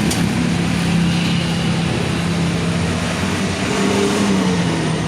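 A vehicle's engine running steadily with road and wind noise, a constant low hum over a hiss.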